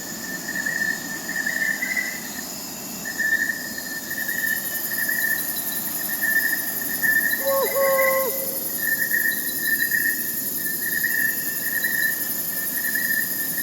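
Crickets chirping steadily in pulsing trills, over a high, constant insect hum. About eight seconds in, a single short owl hoot.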